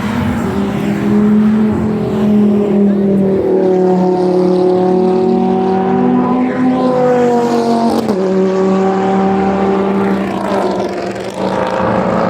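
High-performance car engine accelerating hard under full throttle, its note climbing slowly through a long gear. There is a sudden drop in pitch at an upshift about eight seconds in, and another shift near the end before it climbs again.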